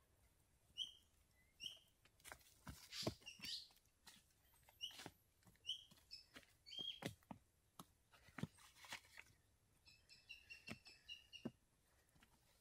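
A small bird chirping: short high chirps repeated every second or so, then a quicker twittering run of notes near the end. Soft footsteps and rustling on dry leaf litter and dirt, with light knocks as things are handled.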